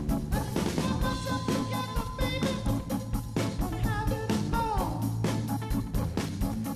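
Rock music: a steady drum beat under electric guitar and bass, with a singing voice gliding in pitch about four to five seconds in.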